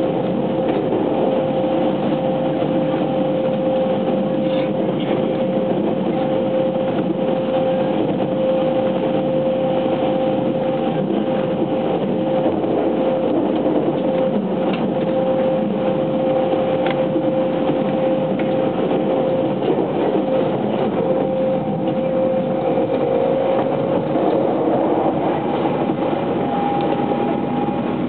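Cabin running noise of a JR West 683 series 2000-subseries electric train at steady speed in a tunnel: a continuous rumble of wheels on rail with a constant whine over it. Near the end the whine changes pitch as the train comes out of the tunnel.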